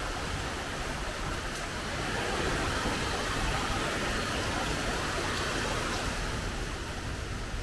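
Really heavy typhoon rain pouring down in a steady hiss, swelling slightly in the middle.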